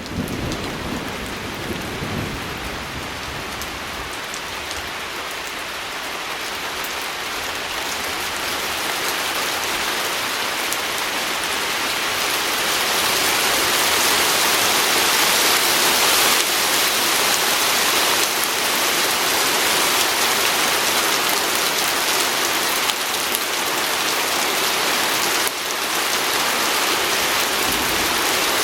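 Steady rain pattering on a window, fading in at the start and building over the first dozen seconds, then holding even.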